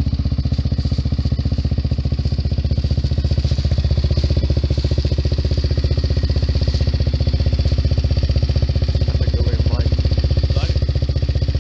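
Kawasaki KFX400's single-cylinder four-stroke engine idling steadily through an HMF slip-on exhaust, an even low thumping beat that is still warming up after a cold start in freezing air.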